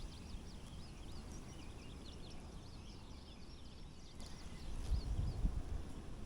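Songbirds chirping: many short, quick notes sliding up and down in pitch, which die away about five and a half seconds in, over a low rumble.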